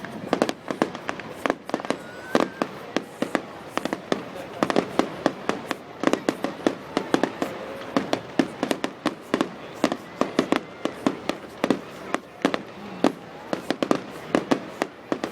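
Fireworks bursting in a rapid, irregular string of sharp bangs and crackles, several a second, over a steady background hum of noise.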